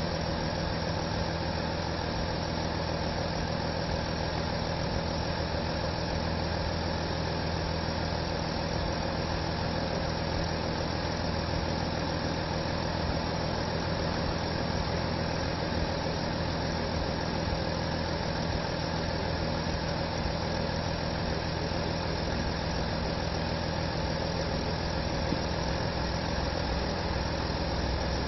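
Audi A6 allroad's 3.0 TDI V6 diesel engine idling steadily.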